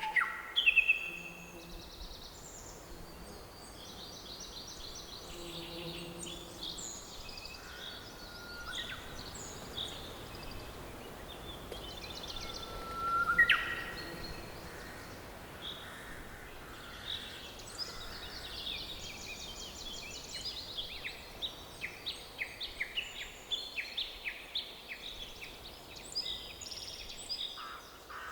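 Forest birds singing and calling over a steady background hush: many short high chirps and trills, with one loud rising call about halfway through and quick runs of chirps through the second half.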